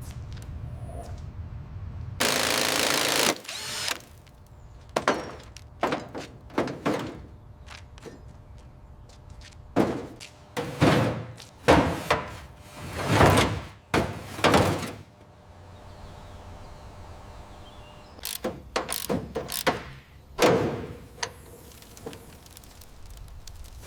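Hand work on a car with tools and parts: a one-second rush of noise a couple of seconds in, then a string of separate clunks and knocks, closest together in the middle of the stretch.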